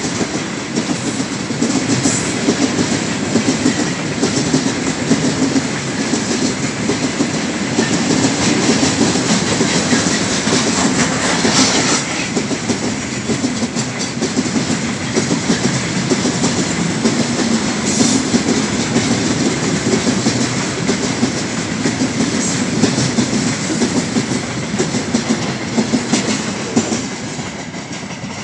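Tank wagons of a long freight train rolling past close by, their wheels rumbling and clicking steadily on the rails; the sound eases off a little near the end.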